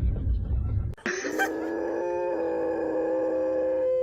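A low rumble for about a second, then a dog howling: one long, steady howl that glides down in pitch at the end.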